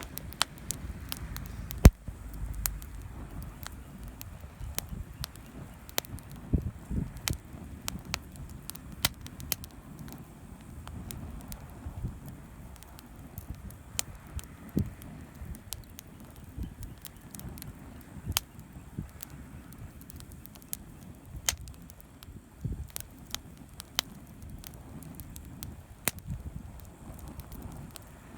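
Wood campfire crackling, with irregular sharp pops and snaps over a low rumble of flames; one louder pop about two seconds in.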